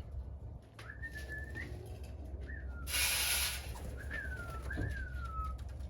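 A person whistling a series of short clear notes that rise, hold and glide down, with a brief rush of noise about three seconds in.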